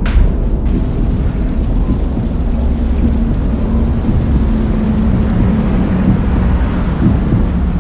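Loud, low rumbling drone of ominous film sound design, with a faint steady hum in the middle. From about two-thirds of the way through, faint high ticks come roughly twice a second.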